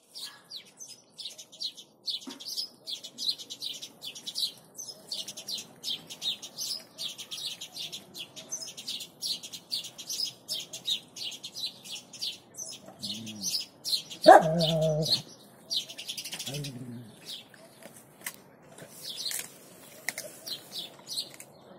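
Small birds chirping rapidly and continuously in high, quick notes. A short, low vocal sound comes in three brief bouts around two-thirds of the way through, the middle one the loudest.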